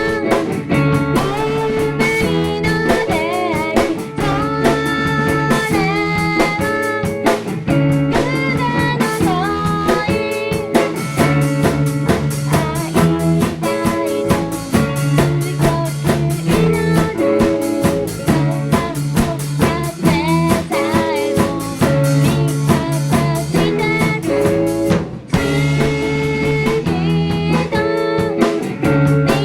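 Live indie-pop band playing a song with guitar and drum kit, a woman singing over it. There is a brief break about 25 seconds in before the band comes back in.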